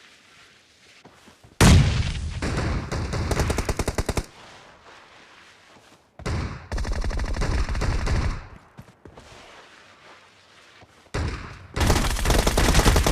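Automatic gunfire from a video game shooter: three long bursts of rapid fire, the first starting about a second and a half in, the second about six seconds in, and the third near the end.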